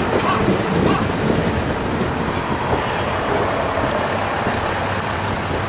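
Kiha 54 diesel railcar running past at close range, its wheels clicking over the rail joints in the first second, then a steadier running noise that eases slightly as it clears.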